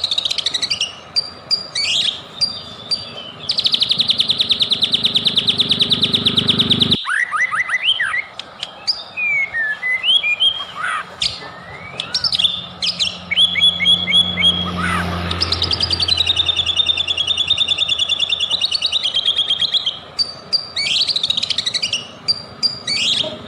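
White-rumped shama (murai batu) singing loudly: varied whistled notes and quick slurs, broken by two long rapid trills, one a few seconds in and one past the middle. The background hum cuts out suddenly about a third of the way through.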